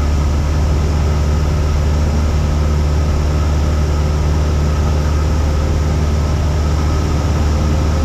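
Cessna 172's piston engine and propeller droning steadily in flight, one unchanging low hum with a hiss over it.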